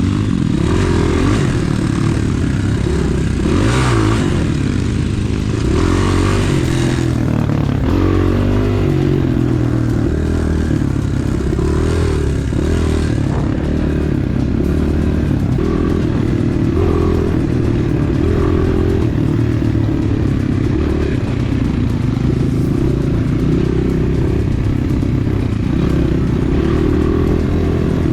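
Enduro dirt bike engine running under throttle, its pitch rising and falling as the rider works it along a forest trail, with the bike rattling and clattering over rough ground, most of it in the first seven seconds and again around twelve seconds in.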